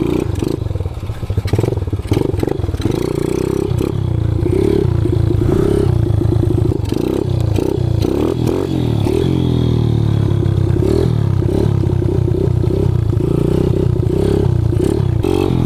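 Kawasaki KLX110 pit bike, bored out to 165 cc with an FMF exhaust, its single-cylinder four-stroke engine running with a throaty exhaust note and revving up and down over and over as it is ridden.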